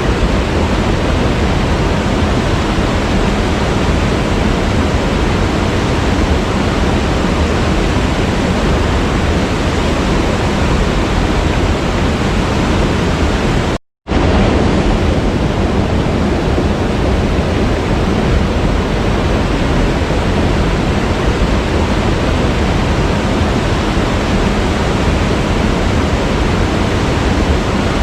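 Waterfall: a steady, loud rush of falling water. It cuts out completely for a fraction of a second about halfway through, then resumes.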